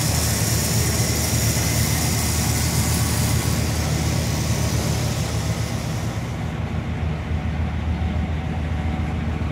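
Pontiac 455 V8 idling steadily with an even low rumble, shortly after a cold start. A higher hiss over it fades away about two-thirds of the way through.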